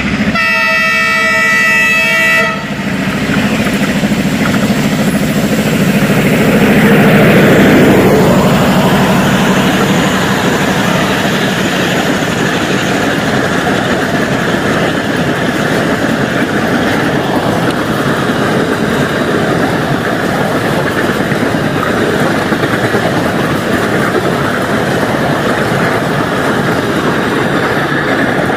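An Indian Railways express train passing at speed. Its locomotive horn sounds once for about two and a half seconds and cuts off. Then comes a steady loud rush of coaches and wheels on rail, loudest about seven or eight seconds in, which carries on as the coaches keep going by.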